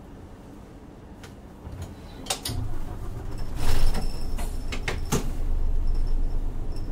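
Interior of an Isuzu Erga city bus with its 6HK1 diesel engine: after a few clicks and knocks, the engine starts about two and a half seconds in and settles to a steady low idle. A loud burst of hiss and more knocks follow, and a steady high tone comes in near the end.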